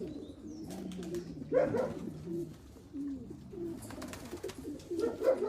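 Racing pigeons cooing, low repeated coos overlapping one another, with a few faint clicks.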